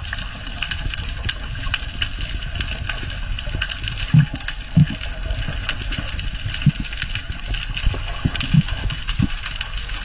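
Steady rushing water noise with a fine scatter of faint crackling clicks, broken by several short, low thumps in the second half.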